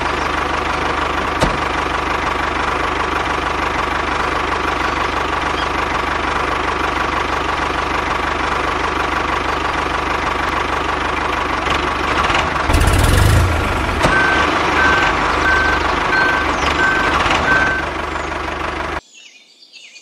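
Tractor engine running steadily, with a brief louder surge about two-thirds of the way through and a run of evenly spaced beeps for a few seconds after it. The engine sound cuts off suddenly about a second before the end.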